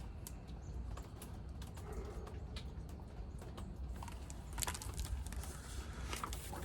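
Faint room tone with scattered light clicks and taps, a few sharper clicks from about two-thirds of the way in.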